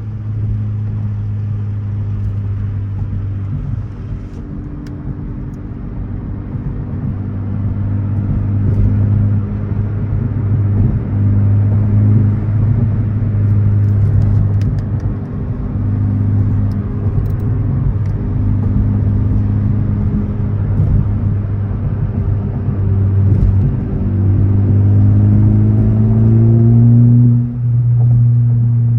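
Modified Honda Civic Type R FL5's turbocharged four-cylinder engine and exhaust, driven at a steady pace with a constant drone. Near the end the pitch rises as the car accelerates, then the sound drops briefly and settles steady again.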